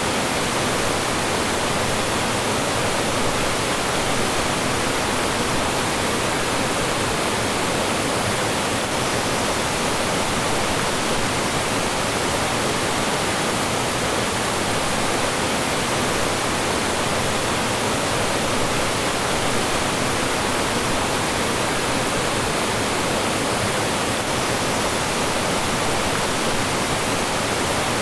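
Mountain stream rushing over rocks and small falls: a steady, loud wash of flowing and falling water with no breaks.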